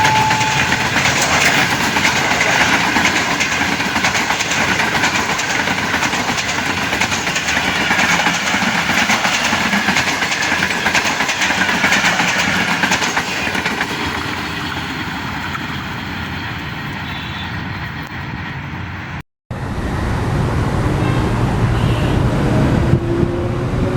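A train hauled by a Pakistan Railways HGMU-30 diesel locomotive passing at speed, with rapid wheel clatter over the rail joints that eases slightly as it goes. About nineteen seconds in it cuts abruptly to a lower, steadier rumble.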